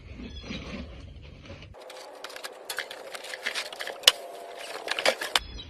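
Crackling and rustling of packaging being torn open and handled, with many small clicks and one sharp snap about four seconds in.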